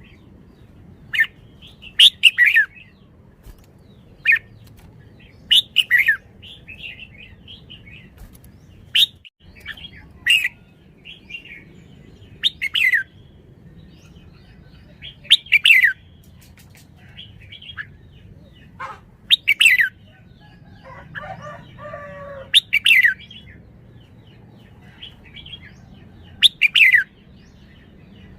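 Red-whiskered bulbul calling: short, loud phrases of quick falling notes repeated every three to four seconds, with softer chattering notes between them.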